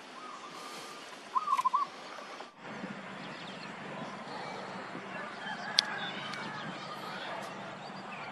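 A bird gives a short wavering call about a second and a half in, the loudest sound. This is followed by a steady background hiss with faint chirps and a single sharp tick near the six-second mark.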